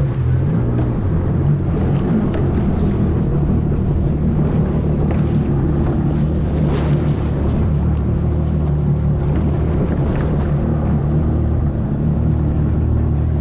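Jet ski engine running steadily at idle just after being started, a constant low engine hum.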